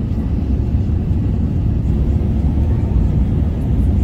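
Steady low rumble of an Airbus A380-800's engines and airflow, heard from inside the passenger cabin.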